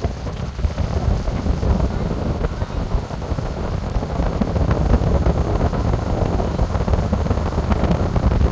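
Wind buffeting the microphone: a loud, uneven low rumble with no clear tones.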